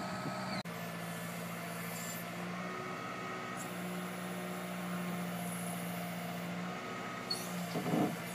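Kubota tractor's diesel engine running at a steady idle, a low even drone.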